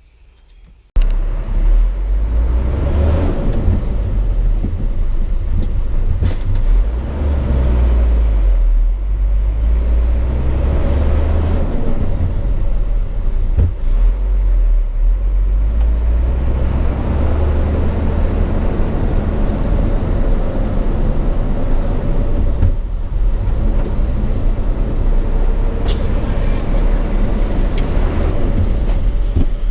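Hino 500 FM 260 JD ten-wheel truck's six-cylinder diesel engine and road noise heard from inside the cab while driving: a loud, deep, steady drone that swells and eases. It cuts in abruptly about a second in, after a quieter moment.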